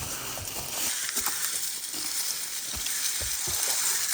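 Food frying in hot oil: a steady sizzle with scattered small crackles and clicks.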